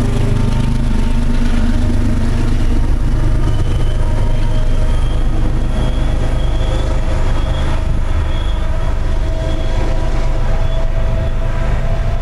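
MBTA commuter rail train passing close by: a steady, loud, heavy rumble of locomotive and cars on the rails, with a faint high whine from about three seconds in.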